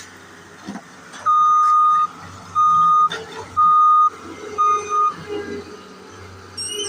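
Skid steer's backup alarm beeping four times, a single steady tone about once a second, over the low hum of its engine running.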